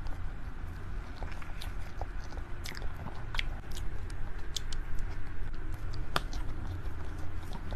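A person biting and chewing soft food, with small wet, crackly clicks scattered irregularly over a steady low hum.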